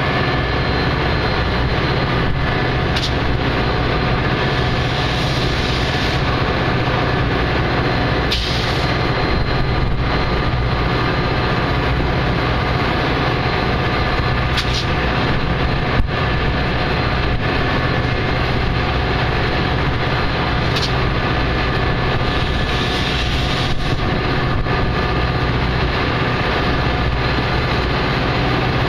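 Metra commuter train's diesel locomotive idling at the station: a steady low hum with several held tones above it. There is one sharp click about sixteen seconds in.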